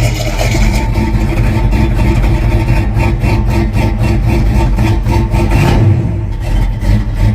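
An engine running steadily, with a rapid regular pulsing through the second half.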